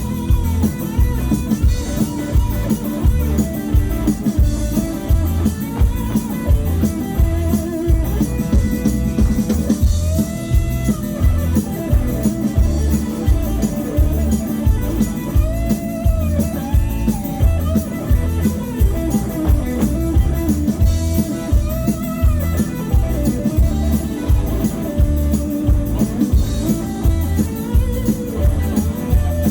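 Live country-rock band playing an instrumental break: a lead guitar line with bending notes over a steady bass and drum beat.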